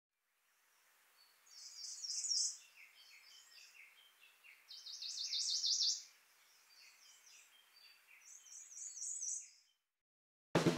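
Birdsong: four phrases of quick, repeated high notes with short pauses between, over a faint steady hiss. Drum music cuts in abruptly at the very end.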